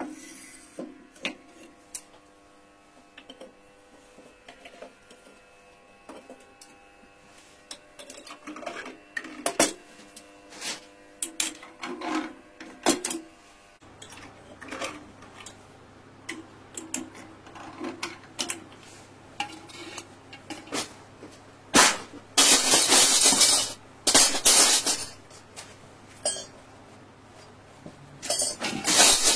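Irregular clinks and knocks of hard objects being handled, with two stretches of louder rushing or scraping noise in the second half.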